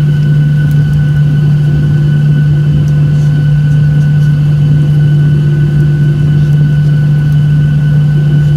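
Boeing 737-800 cabin noise: the engines' steady drone heard from inside the cabin, a loud low hum with a few steady whining tones above it that do not rise or fall.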